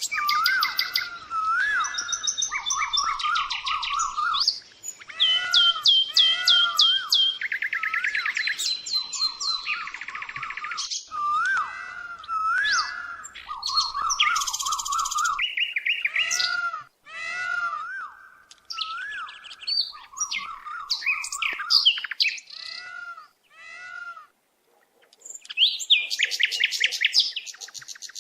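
Several birds chirping and calling over one another: rapid high trills mixed with a repeated rising-and-falling whistled note, with a few brief pauses in the second half.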